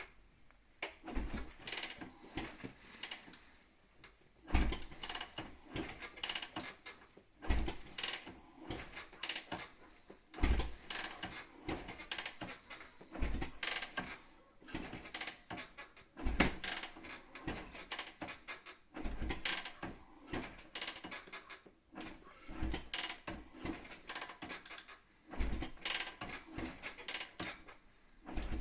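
Irregular knocking and clatter, with a heavier thud about every three seconds; no engine is running.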